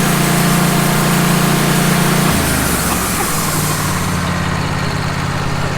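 An engine running steadily, its pitch stepping down a little about two seconds in, with a hiss above it that thins out near the end.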